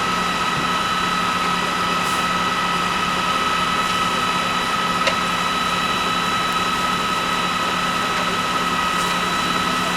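A steady mechanical drone like an engine running, with a constant high tone held over it, and a single sharp click about five seconds in.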